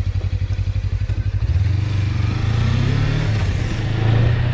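Suzuki V-Strom 250's parallel-twin engine pulling at low revs with a distinct pulse, then the revs rise about a second and a half in and it runs on more smoothly under way.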